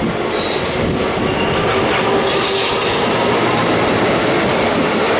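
Electric train running along the platform, its wheels clattering over rail joints with a faint high wheel squeal.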